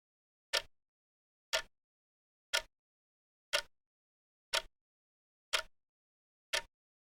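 Clock ticking steadily once a second, seven short, sharp ticks with silence between them.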